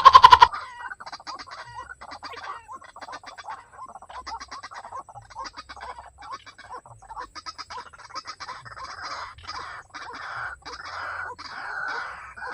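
White-breasted waterhens calling: a loud, rapid, pulsed call right at the start, then a continuous run of repeated clucking and croaking calls that grows fuller toward the end.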